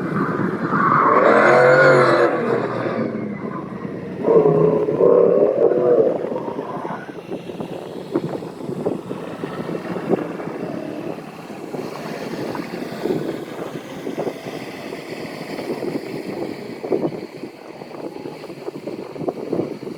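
Vehicle engine noise, with two louder wavering passages in the first few seconds, then a steadier, quieter rumble.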